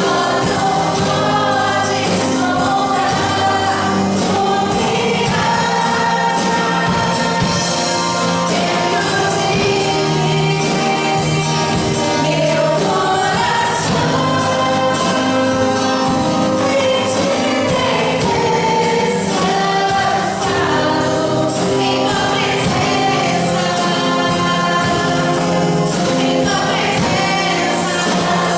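Church praise team singing a Portuguese gospel worship song as a choir, with instrumental accompaniment, at a steady loud level.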